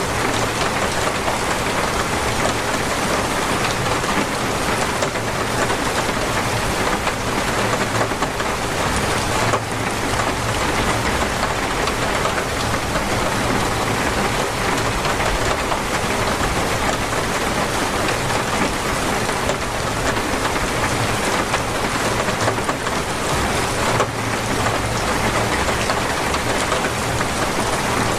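Torrential rain pouring down in a steady, dense hiss, with no let-up.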